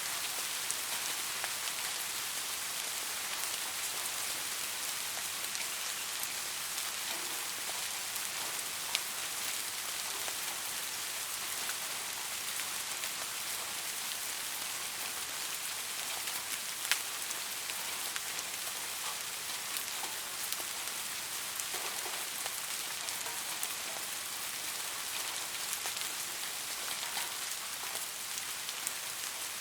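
Steady rain falling on a surface: an even hiss of rain, with the sharper ticks of single drops here and there.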